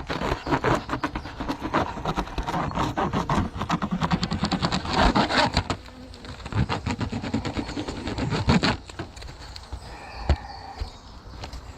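Honeybees buzzing around an open hive, with dense, rapid scraping and handling noise. The scraping stops after about nine seconds, leaving quieter buzzing and one sharp click.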